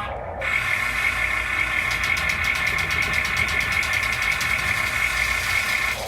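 Scale RC construction machine running, a steady high mechanical whine starting about half a second in, with a fast even pulsing from about two to five seconds in.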